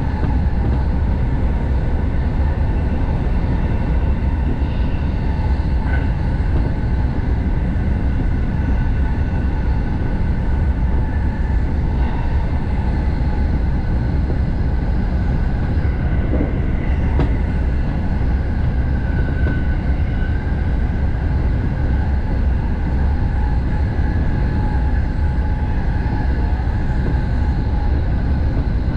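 Interior running noise of a JR Sobu Line Rapid commuter train travelling at speed: a steady low rumble of the car and its wheels on the rails.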